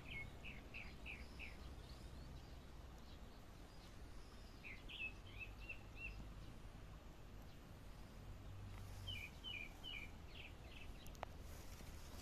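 A songbird singing three short phrases of quick repeated chirping notes, one at the start, one about five seconds in and one about nine seconds in, over faint steady outdoor background noise.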